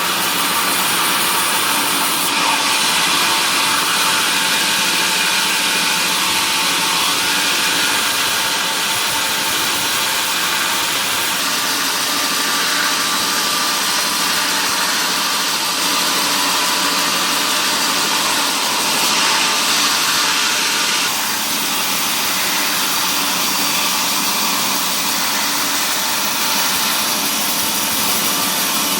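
Sawmill machinery running steadily: a loud, even machine noise with a low hum underneath, unbroken throughout.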